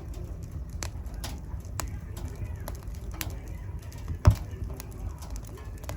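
Wood fire burning in a fireplace: a steady low rumble with irregular small crackles and one much louder pop about four seconds in.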